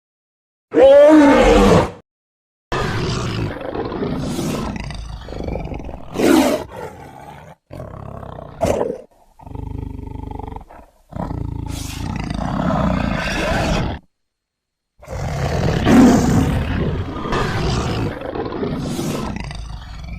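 A run of monster roar and growl sound effects: several separate roars, each cut off abruptly with a brief silence before the next. The first is short and loud, with a wavering pitch.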